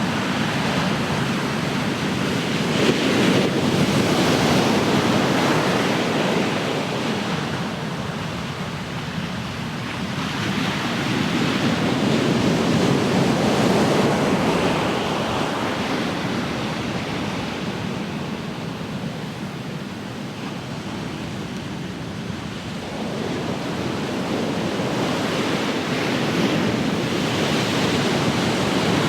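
Ocean waves breaking and washing on the shore as a steady rush that swells and eases three times, with the sea's noise running underneath.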